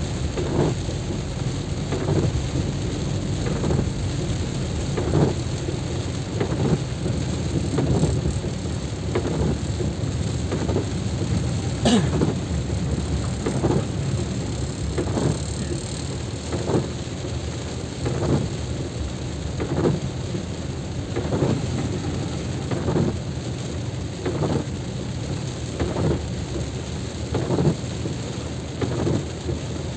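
Rain with a steady low rumble of wind and travel noise, with soft regular pulses a little more than once a second and a single sharp click about twelve seconds in.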